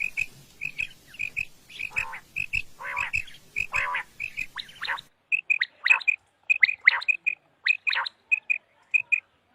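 Common quail calling: short, high notes in quick pairs and triplets, repeated over and over, with a few harsher rasping calls mixed in during the first half. The background hiss drops away abruptly about halfway through, as if a different recording takes over.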